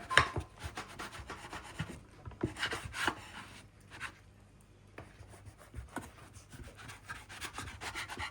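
Kitchen handling noises: irregular light scrapes, rubs and small knocks of utensils and dishes, a little louder at the start.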